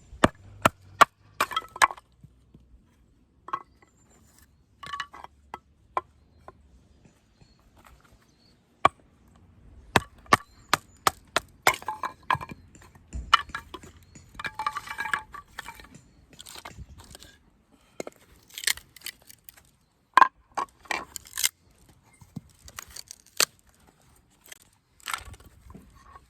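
Firewood being split by batoning with a knife: irregular sharp wooden knocks in bursts, with the wood cracking.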